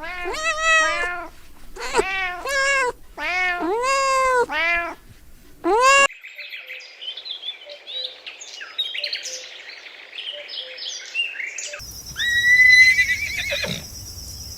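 A cat meowing repeatedly: about six drawn-out meows, each rising and falling in pitch. About six seconds in, the sound cuts abruptly to small birds chirping and twittering. Near the end, a louder call from another animal comes in.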